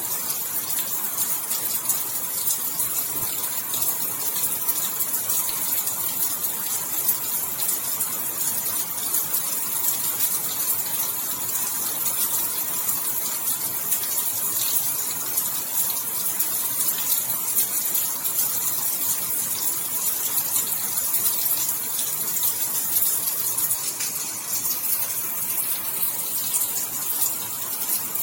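Steady rain, a continuous hiss of falling water with a dense patter of individual drops.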